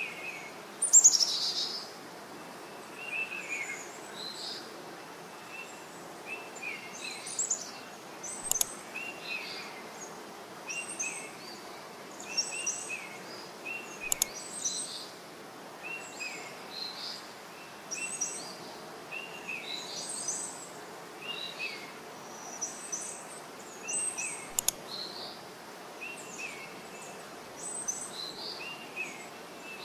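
Birds chirping with short, repeated calls every second or so over a steady background hiss, one louder sweeping call about a second in.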